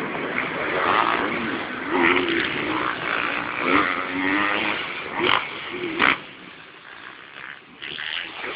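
Motocross bike engines revving, with short rises and falls in pitch. The sound is loud for about six seconds, then drops away to a lower level. A sharp click about five seconds in.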